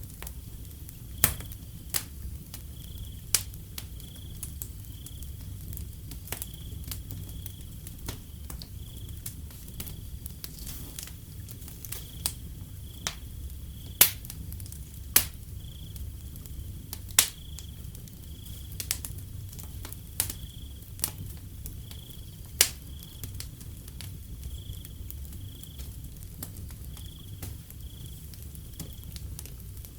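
Wood fire crackling, with sharp irregular pops over a low steady rumble. Crickets chirping in an even pulse, a bit more than once a second.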